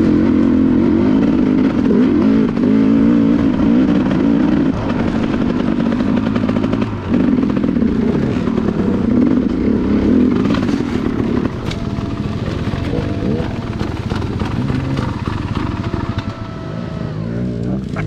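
Enduro dirt bike engine running and revving up and down while riding a rough trail, loud for the first ten seconds or so, then dropping to lower revs and quieter running.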